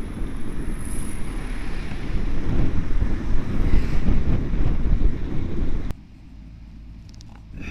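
Wind buffeting the microphone of a camera on a moving bicycle, a loud low rumble that cuts off suddenly about six seconds in to a much quieter background.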